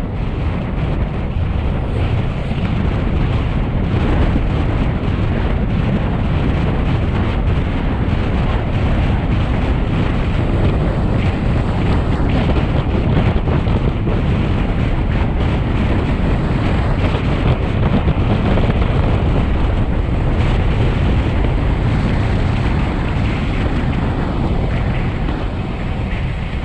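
Loud, steady wind rushing over the microphone of a camera on a road bike descending at speed, easing slightly near the end.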